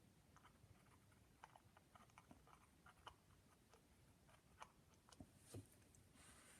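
Near silence with faint, scattered small clicks and ticks, a few slightly stronger near the end.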